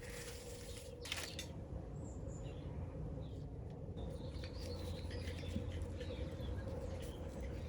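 Small birds chirping faintly, in short high calls scattered through the second half, over a steady low outdoor rumble. A brief scrape comes about a second in.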